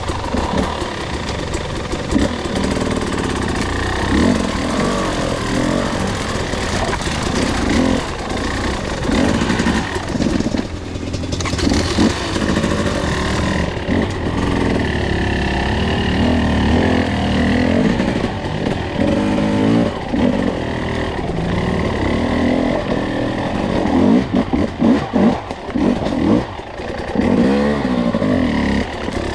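Two-stroke enduro dirt bike engine under way, its revs rising and falling again and again as the throttle is worked. It is ridden short-shifted and lugged on its torque for traction on a slick, wet trail.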